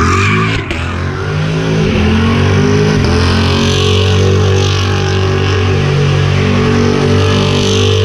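A car engine revving up and then held at steady high revs.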